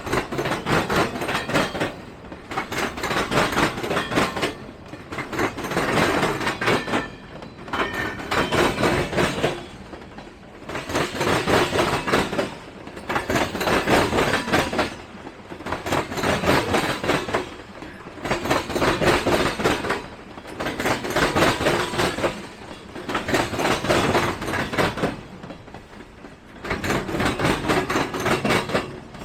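Train cars rolling past, wheels clattering over the rail joints. The clatter swells and fades about every two seconds as each car goes by.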